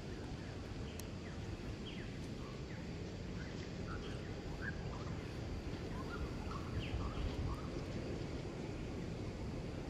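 Faint, scattered short bird chirps, several a second, over a steady low rumble of outdoor background noise.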